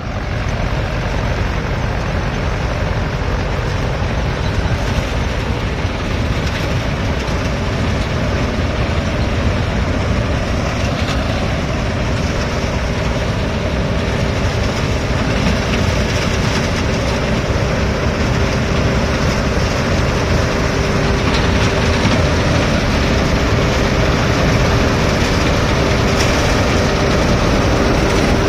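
Tractor engine running steadily under load while pulling a superseeder through the field. A steady hum grows stronger and a little louder in the last third.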